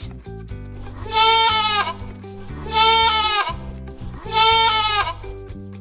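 Goat bleating three times, each bleat a wavering call of under a second, over light background music.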